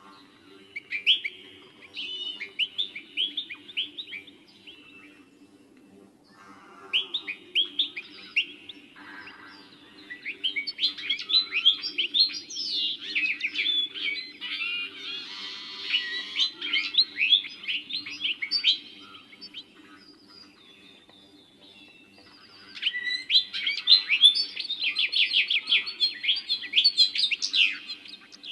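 Small birds chirping and twittering in bouts of rapid, quick notes, with short pauses between the bouts.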